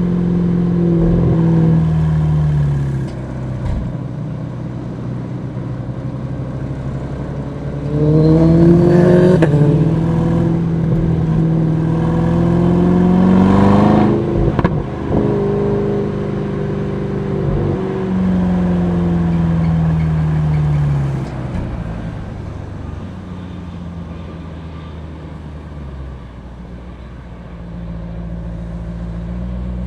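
Aston Martin DBX S 4.0-litre twin-turbo V8 driving under varying throttle. About eight seconds in it pulls hard, and its note climbs for several seconds until a gear change drops the pitch. The note then falls away as it slows and picks up again near the end.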